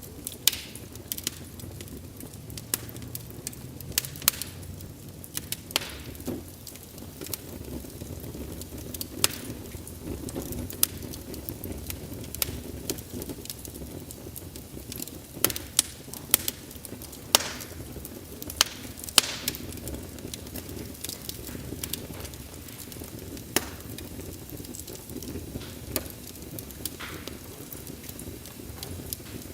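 Wood fire crackling: a steady low hiss and flutter of burning logs with irregular sharp snaps and pops scattered throughout, a few of them loud.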